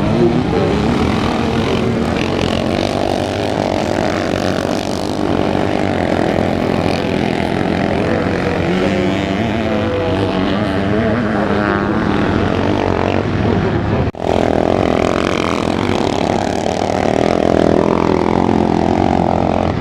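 Several motocross motorcycle engines racing around the track, their pitches rising and falling as the riders rev, shift and pass, overlapping one another. The sound drops out for an instant about fourteen seconds in.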